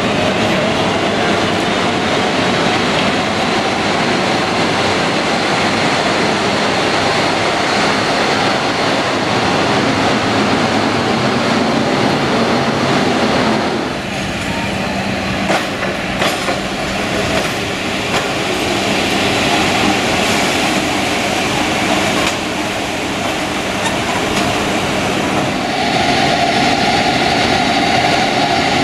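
A locomotive and train moving at the station: continuous engine and wheel-on-rail noise with a rising whine at the start and a few sharp clanks about halfway through. A steady hum sets in near the end.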